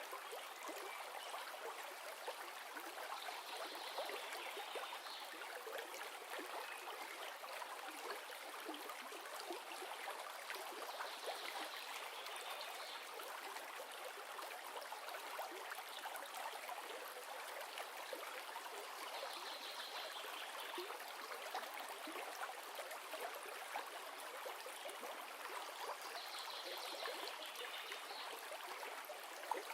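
A river's water running steadily over stones, a continuous rushing and trickling, with a brief higher sound recurring about every eight seconds.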